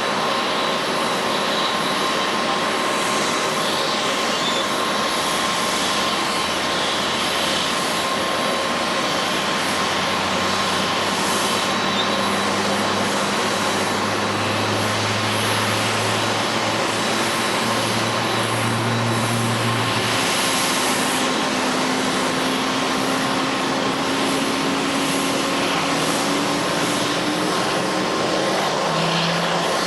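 Jet engine noise from a Boeing 747-8's four GEnx engines, steady and continuous, with a low hum that slowly rises in pitch in the second half.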